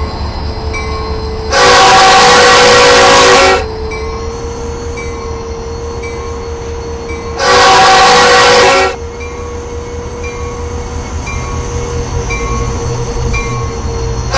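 CPKC diesel freight locomotive sounding its horn: two long blasts, the first about two seconds long and the second a little shorter, over the steady low rumble of the train.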